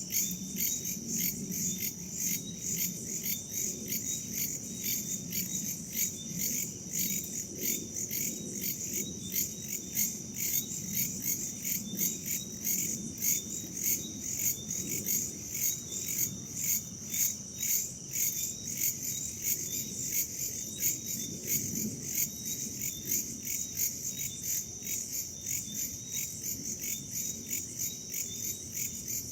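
Crickets and other insects chirping in a steady, evenly pulsing chorus, over a low, uneven rush of wind.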